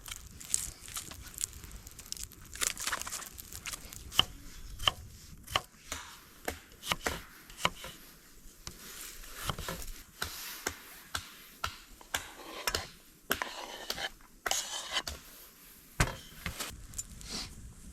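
Irregular series of sharp chopping knocks and cracks, with some scraping in between.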